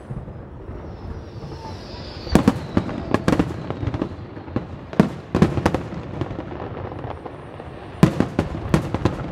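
Aerial firework shells bursting overhead: sharp bangs in three clusters, about two and a half seconds in, around five seconds in, and again near the end. A thin whistle sounds just before the first cluster.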